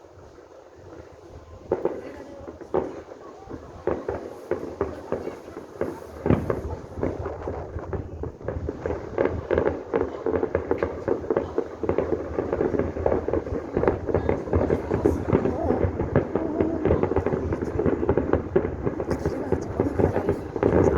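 Fireworks bursting: scattered bangs at first, then growing into a dense, continuous crackle of many reports from about nine seconds in.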